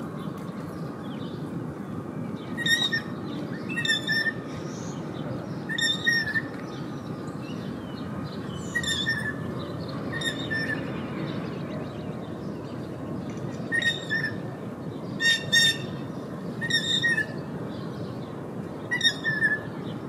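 A bird calling repeatedly: about ten short, clear, pitched calls at irregular intervals, some in quick pairs, over a steady low background noise.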